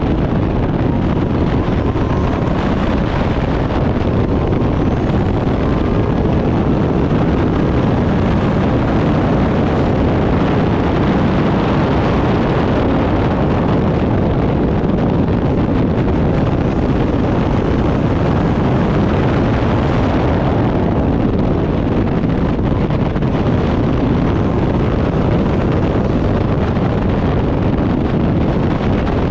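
Turbocharged Backdraft Cobra race car's engine running hard at speed under heavy wind noise on the microphone, loud and unbroken.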